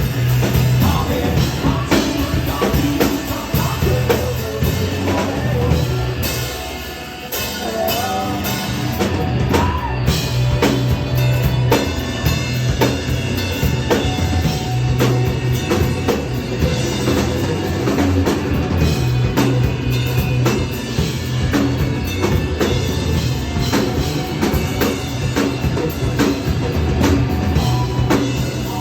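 Indie rock band playing live: drum kit, bass and guitar with sung vocals. The band thins out briefly about seven seconds in, then comes back in full.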